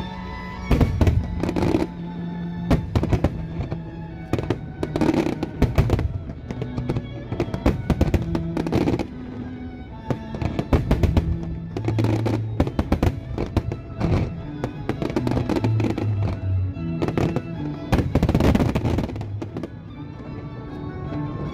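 Aerial fireworks bursting repeatedly at irregular intervals, with some bursts in quick succession, over steady music with held notes.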